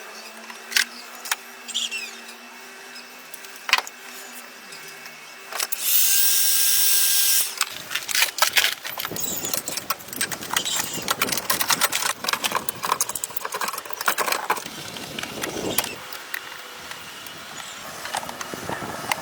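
Workshop tool work. A handheld power tool runs in one short burst about six seconds in, and from about eight seconds on there is a long run of rapid clicking and scraping.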